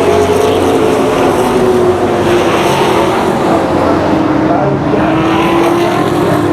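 Engines of a field of race trucks running at speed on a short oval track, several engines overlapping in a steady drone. The main engine pitch dips a little about halfway through, then holds.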